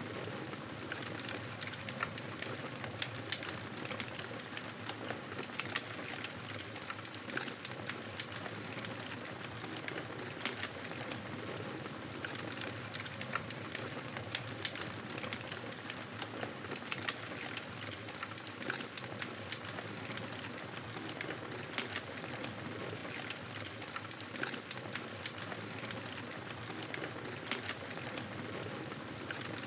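Wood fire crackling steadily: a dense scatter of small sharp pops and snaps over a constant soft hiss.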